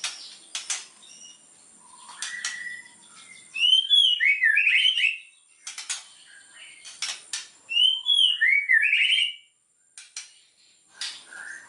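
White-rumped shama (murai batu) singing: two phrases of quick whistled notes, about four and eight seconds in, with sharp clicking notes scattered between them.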